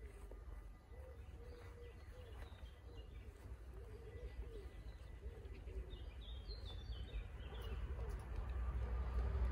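Birdsong: a pigeon-like cooing repeated over and over, with a burst of high chirps from a small bird about two-thirds of the way through. A low rumble builds toward the end as a train approaches.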